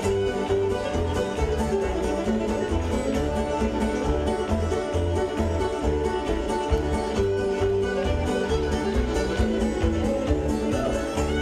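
Band music with stringed instruments playing over a steady, pulsing bass beat.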